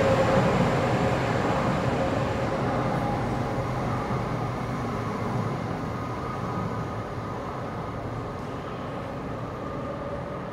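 Marmaray electric commuter train pulling out of the station into the tunnel, its running noise fading steadily as it draws away, with a whine that dies out in the first few seconds.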